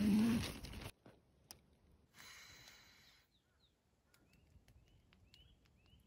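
A brief louder, low sound with a bending pitch in the first second, then a quiet forest night with a string of faint, short rising bird chirps in the second half.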